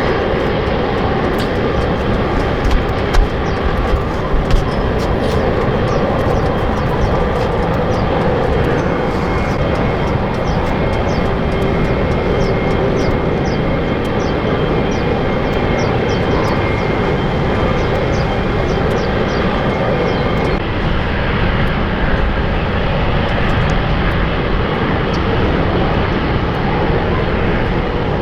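Jet airliner engines running steadily, a loud, even noise, with a few short louder knocks about three to four seconds in.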